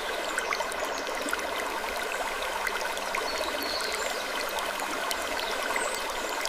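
Steady rushing noise like a flowing stream, sprinkled with many small ticks and clicks and a few brief faint high squeaks.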